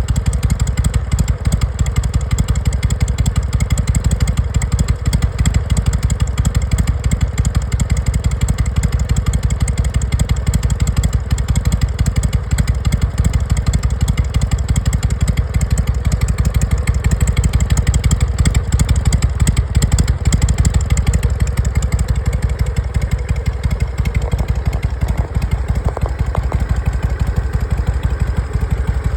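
Harley-Davidson Sportster 883's air-cooled V-twin idling steadily with an even pulse. It runs smoothly, back in good health after a new battery and carburetor insulator.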